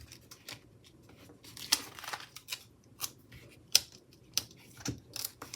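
Paper stickers being peeled and pressed onto a planner sheet: a string of crisp, irregularly spaced clicks and snips, about eight or nine in all.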